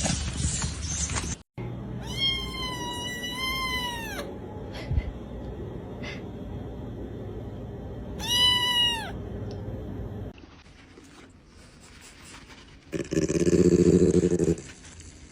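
A cat meowing: one long drawn-out meow that wavers in pitch, then a shorter second meow a few seconds later. Near the end, a louder low-pitched call follows.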